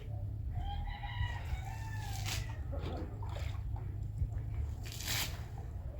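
A rooster crowing once, a single arching call of about a second and a half, over a steady low rumble.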